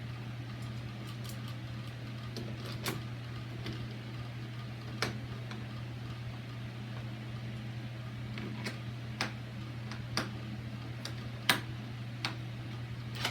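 Scattered sharp clicks and light knocks from a door lock's hardware being handled and worked by hand, the loudest about eleven and a half seconds in, over a steady low room hum.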